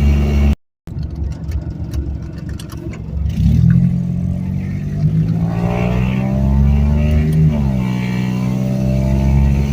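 Geo Metro engine pulling under way with its automatic transmission; the engine note climbs, then drops sharply about three-quarters of the way through as the gearbox shifts up, a normal shift in the freshly flushed transmission.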